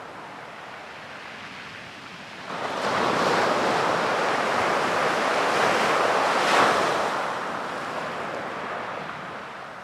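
Ocean waves breaking on a beach: after a quiet lull, a wave comes in about two and a half seconds in with a rushing wash of surf, peaks, then slowly fades as the water draws back.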